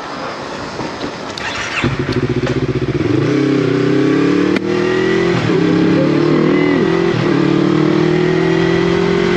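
Yamaha MT-03 motorcycle with a Scorpion full-system exhaust accelerating through the gears. Its engine note comes in about two seconds in and rises steadily, dipping briefly at each upshift, around three, five and a half, and seven seconds in. Before the engine comes up there is only wind rush.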